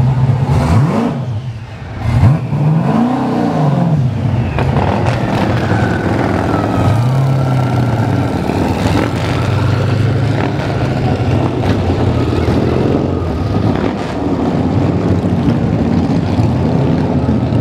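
Hennessey Venom GT's twin-turbocharged V8 revving up and down as the car pulls away, with a sharp loud blip about two seconds in, then a steady engine drone mixed with motorcycle engines running alongside.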